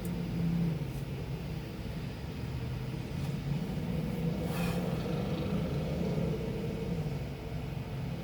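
Truck engine running steadily, heard from inside the cab as a low, even drone.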